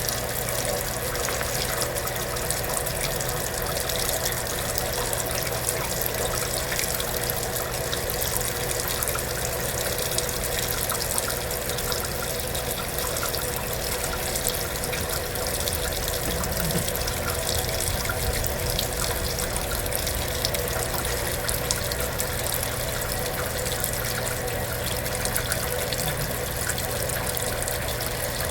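Kenmore belt-drive portable washing machine running, with a steady rush of water and an even mechanical hum.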